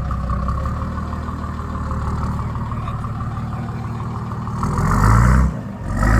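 An off-road 4WD's engine running at low revs, then revved hard twice near the end, with a brief drop between the surges.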